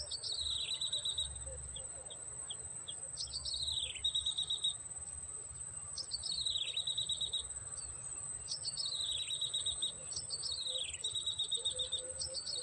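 Prenjak (prinia) calling over and over: each call is a falling sweep followed by a rapid high trill, about six times. Under it runs a steady high-pitched insect drone.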